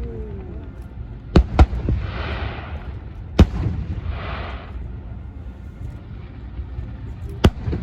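Fireworks display: aerial shells bursting with sharp booms, a quick pair near the start, one in the middle and one near the end, with two spells of crackling between them over a steady low rumble.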